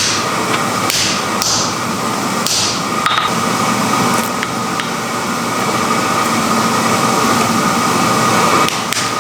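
Steady whoosh and hum of a forge blower, with a few sharp clanks of metal on metal in the first three seconds.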